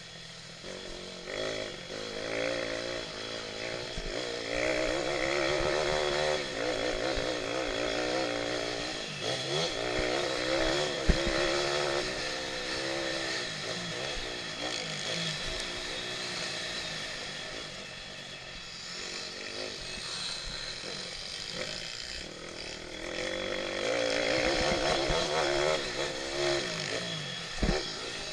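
Pit bike engines racing, revving up and down as the riders accelerate and back off, louder for several seconds twice. A sharp knock about eleven seconds in.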